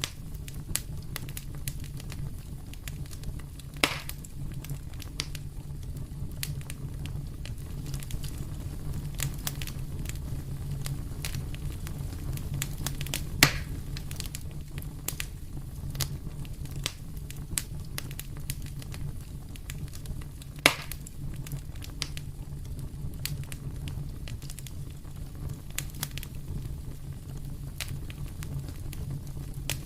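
Wood fire in a fireplace crackling, with frequent small snaps and three louder pops spread through the stretch, over a steady low rumble.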